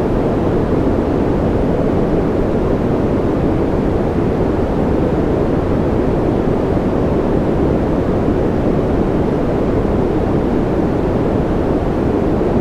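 Steady, unchanging sleep-noise track: a deep, even rush of noise, heavier in the low end than a hiss, with no individual drops, clicks or rhythm.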